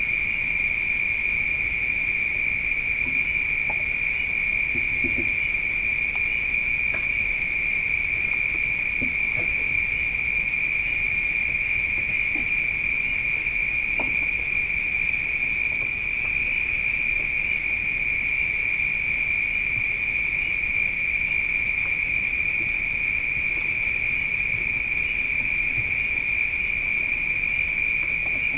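Night insects, chiefly crickets, trilling in a continuous chorus at two steady high pitches, unchanging in level, with a few faint small clicks underneath.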